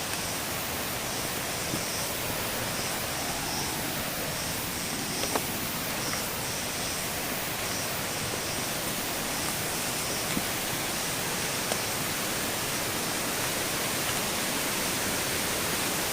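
Steady rushing of a jungle waterfall, a dense even roar of falling water that grows slightly louder toward the end, with a few faint knocks.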